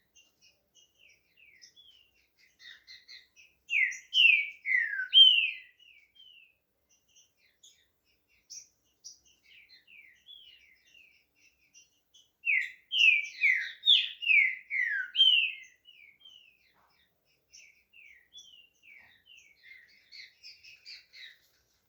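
Green-winged saltator (trinca-ferro) singing: two loud phrases of slurred whistled notes that fall in pitch, one about four seconds in and one a little past the middle, with soft twittering between them.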